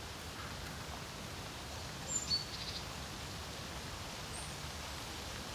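Wind blowing steadily over a lake with a low rumble, and small birds calling: a couple of high chirps and a short run of quick repeated notes about two seconds in, then a faint high note near the end.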